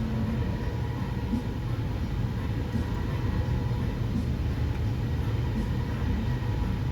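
Steady low rumble of running machinery, with faint steady hum tones above it.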